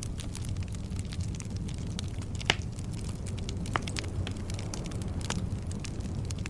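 Campfire of burning firewood crackling steadily over a low rumble. Sharper pops stand out about two and a half seconds in and again near four seconds in.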